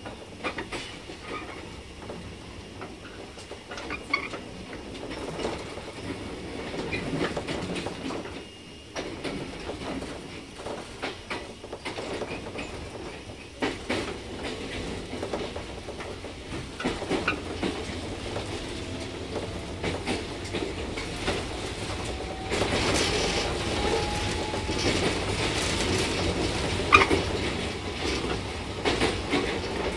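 Onboard running sound of a JR 415 series 100-subseries electric multiple unit under way: steady wheel-on-rail rumble with clickety-clack from the rail joints. It gets louder about two-thirds of the way through, with a faint rising whine.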